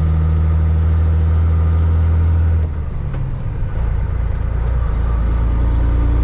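Caterpillar 3406E diesel engine of a Freightliner FLD120 truck running steadily, heard from inside the cab. A little under halfway through, its note breaks off and dips, then settles at a lower pitch.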